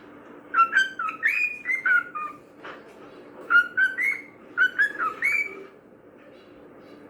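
Cockatiel whistling: two quick runs of short, clear, upward-sliding notes, the second starting about a second after the first ends.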